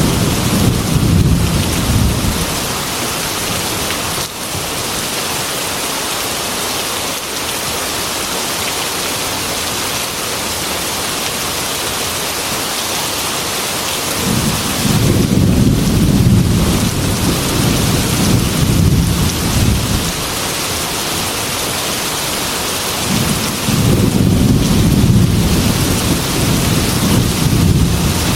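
Heavy rain falling steadily against a glass window, with rolling thunder rumbling low three times: at the start, about halfway through, and again near the end.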